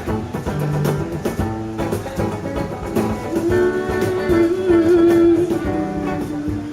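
Live acoustic guitar strumming with cajon percussion, an instrumental passage of a song. A long held note sounds over it in the middle.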